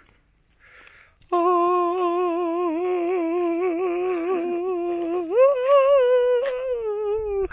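A person humming two long, wavering notes: a low note held for about four seconds, then a glide up to a higher note held for about two seconds.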